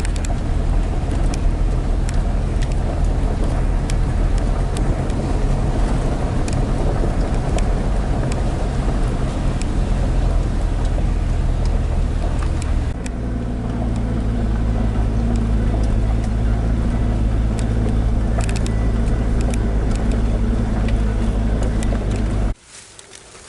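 Motor vehicle driving, a steady low engine drone with road noise and scattered clicks and rattles. The engine note shifts about thirteen seconds in, and the sound cuts off abruptly near the end.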